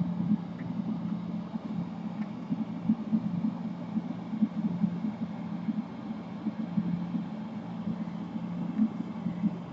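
A steady low machine hum that flickers unevenly and never stops.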